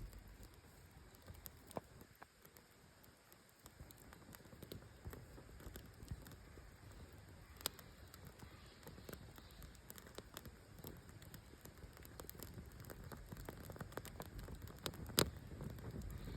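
Wood campfire crackling, with irregular sharp pops over a soft steady hiss; one pop near the end is the loudest.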